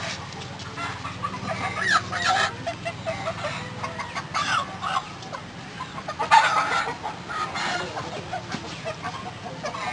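Birds calling: short calls that bend in pitch, scattered through, the loudest about six seconds in, over a steady low hum.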